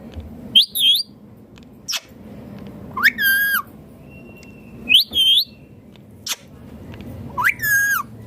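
Ringneck parakeet calling in repeated short notes, about six in all, some whistled with a rising-and-falling pitch and some brief sharp squawks, one to two seconds apart.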